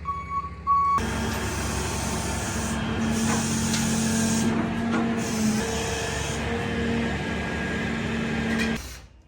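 Tow truck backing up: its reversing beeper sounds for the first second, then the truck's machinery runs with a steady hiss and hum, which stops abruptly near the end.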